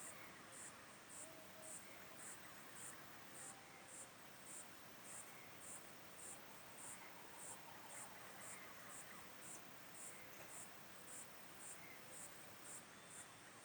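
An insect chirping steadily, about two short high pulses a second, over a faint background hiss.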